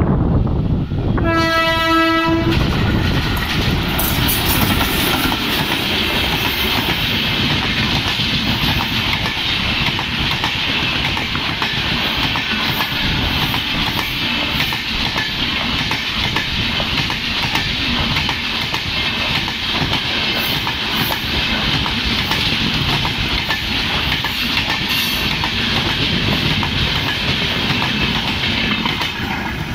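WAP4 electric locomotive's horn sounds one blast about a second in, lasting about a second. Then an LHB passenger train runs through at speed: the loud, steady noise of the wheels on the rails as the coaches pass, dropping away at the end as the last coach goes by.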